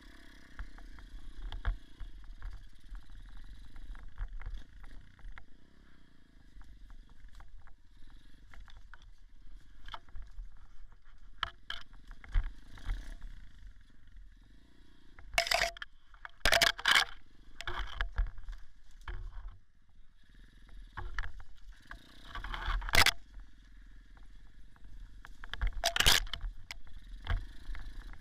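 Small dirt bike engine running off-road, heard dull and low, with frequent knocks and rattles and several loud sharp scrapes or bumps from riding over rough forest ground.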